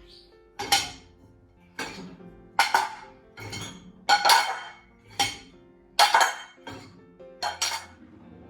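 Kitchenware clinking and knocking about once a second, dishes and utensils being handled, each strike ringing briefly, over soft background music.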